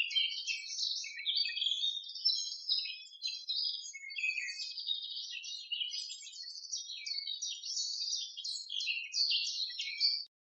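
Small birds chirping and twittering in a dense, continuous, high-pitched chatter that cuts off abruptly near the end.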